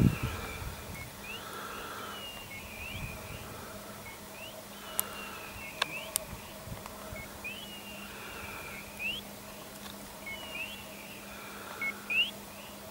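Birds calling over open country, short rising and falling chirps repeated about every second, with a faint steady hum underneath and a few sharp clicks about halfway through.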